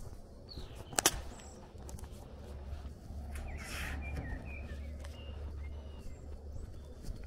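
Outdoor ambience with small birds chirping intermittently over a steady low rumble, a sharp double click about a second in, and a brief rustle about halfway through.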